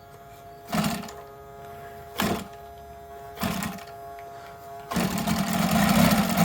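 UMS 7-90 seven-cylinder radial gasoline engine being turned over in three short bursts. It catches about five seconds in and keeps running at idle, around 1,000 RPM.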